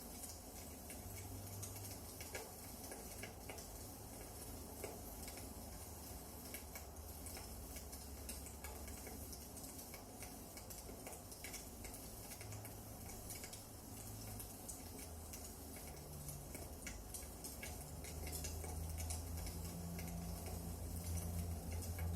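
Wood fire burning in a fireplace, crackling with irregular small pops and snaps over a low rumble that swells near the end.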